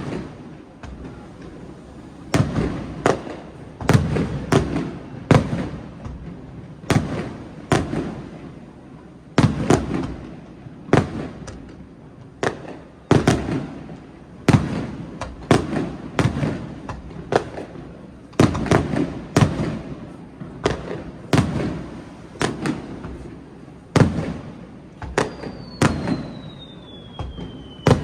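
Aerial fireworks bursting in a rapid, uneven series of sharp bangs, each trailing off in a low rumbling echo. Near the end a whistle slides down in pitch.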